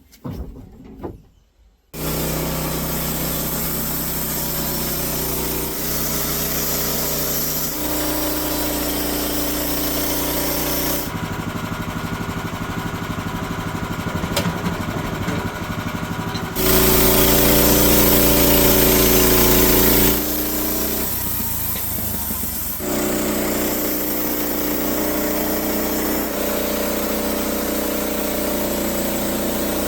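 Small gasoline engine of a saw running steadily at working speed, starting abruptly about two seconds in; its pitch and load shift several times, and it is loudest for a few seconds in the middle.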